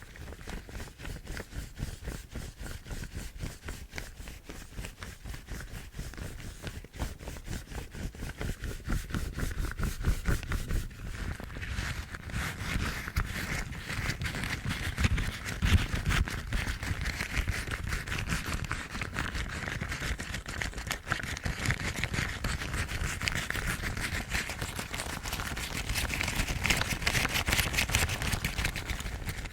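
Yellow rubber household gloves rubbed and scratched together: a dense, continuous rustling made of quick crinkly clicks, getting louder about a third of the way in.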